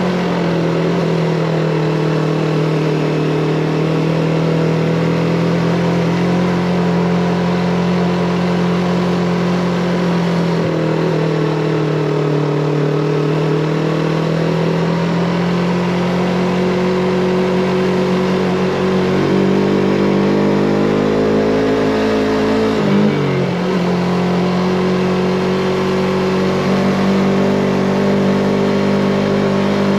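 Yamaha MT-25's parallel-twin engine running under way, its note rising and falling gently with the throttle. About three quarters of the way through, the pitch drops sharply and then picks up again.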